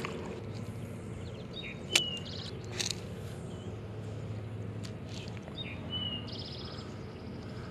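Birds calling: short high chirps, each with a brief rapid trill, coming a few times over steady low outdoor background noise. A couple of sharp clicks come about two and three seconds in.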